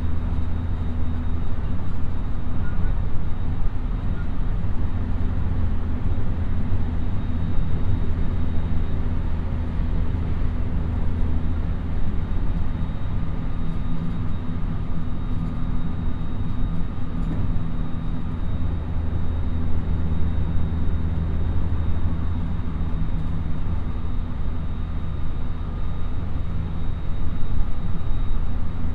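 Inside the cabin of a JR West 223 series electric train running steadily: a continuous low rumble of the wheels and running gear, with a faint steady high whine over it.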